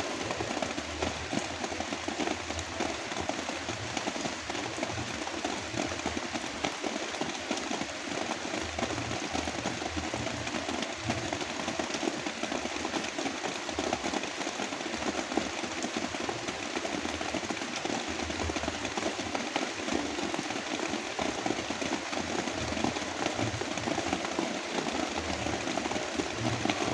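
Heavy rain falling steadily in a dense, even hiss, layered over a deep, uneven brown-noise rumble.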